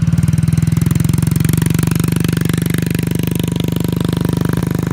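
Small motorcycle engine running at a steady, low speed with an even, rapid putter and no revving; it drops slightly in level about two seconds in.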